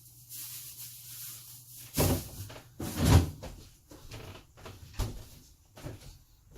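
Kitchen doors being opened and shut and things handled: several knocks and thumps, the loudest about two and three seconds in, with a low hum under the first two seconds.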